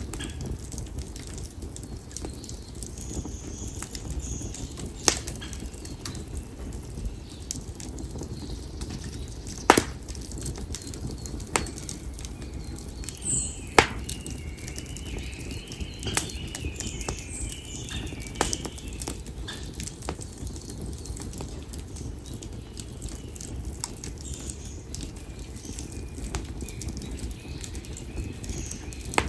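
Split konara oak firewood burning in an open fire: a steady low rumble of flames with scattered crackles and a few sharp pops, the loudest about ten and fourteen seconds in.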